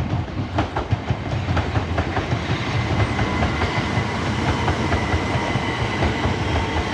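Southeastern Class 375 Electrostar electric multiple unit running into the platform, a steady rumble with wheels clicking over rail joints. A steady high whine joins in about two seconds in.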